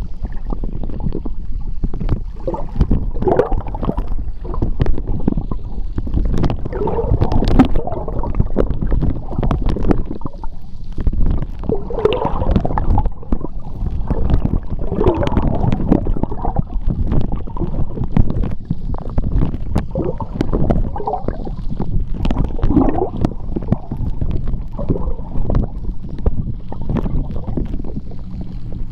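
Seawater churning and bubbling, heard underwater: a continuous low, muffled rumble with irregular gurgling swells and scattered small clicks and pops.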